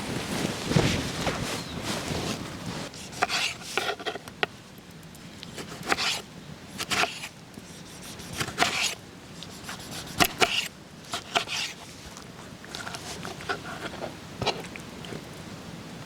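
Wood being worked with hand tools: rubbing and scraping over the first couple of seconds, then scattered, irregular sharp knocks and scrapes.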